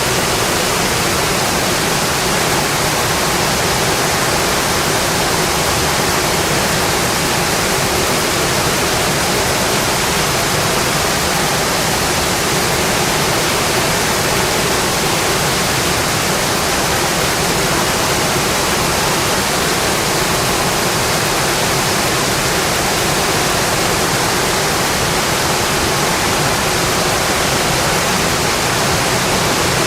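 Steady heavy rain, an even unbroken hiss with no separate drops or crackles standing out.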